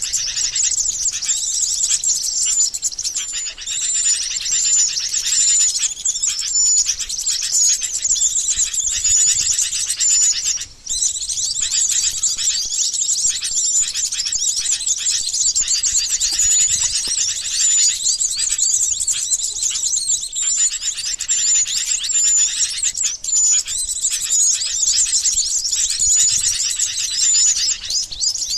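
Bird-lure recording of sooty-headed bulbuls' rapid chattering calls mixed with calls of small songbirds: a dense, continuous high-pitched twittering with short whistled notes repeated through it. It breaks off briefly about eleven seconds in.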